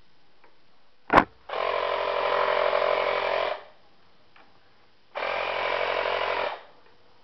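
An RC jet's retractable landing gear mechanism cycling: a sharp click about a second in, then the gear running steadily for about two seconds, and a second run of a little over a second starting about five seconds in.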